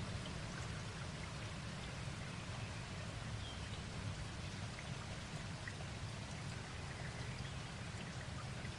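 Steady rain falling, with scattered individual drops over an even hiss and a low rumble underneath.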